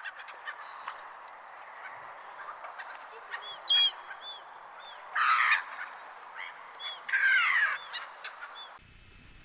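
A flock of birds calling together: constant chatter and short chirps, with two loud, harsh calls about five and seven seconds in. The sound cuts off abruptly near the end.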